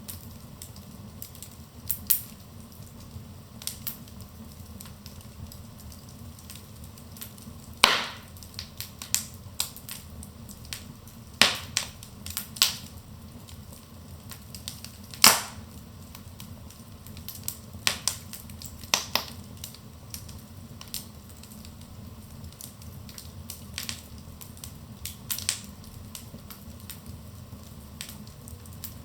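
Wood fire crackling in a fireplace: irregular sharp pops and snaps over a steady low rumble of the flames, the loudest pops about eight and fifteen seconds in.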